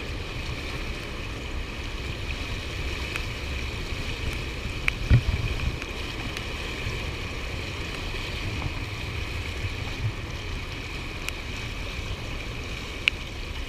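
Steady rush of water from the dam spillway with wind buffeting the microphone; a thump about five seconds in and a sharp click near the end.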